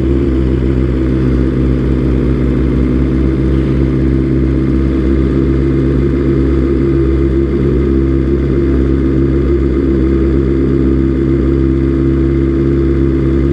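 Motorcycle engine idling steadily at an even pitch, with no revving.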